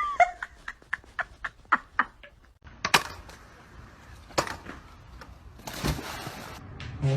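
A series of short, sharp clicks or taps, coming quickly for the first couple of seconds and then only now and then, with a brief hiss about six seconds in.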